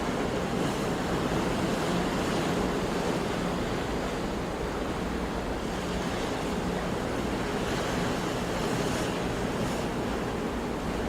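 Sea surf: waves washing in a steady, unbroken rush with gentle swells, and wind mixed in.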